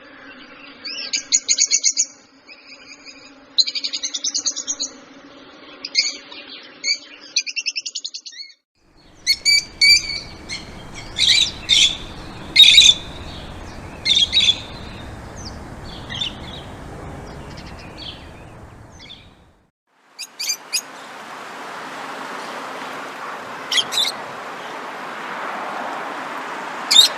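Small songbirds chirping and twittering in short, high calls, in three separate recordings joined with brief silent breaks, about eight and nineteen seconds in. The later two have a steady background hiss under the calls.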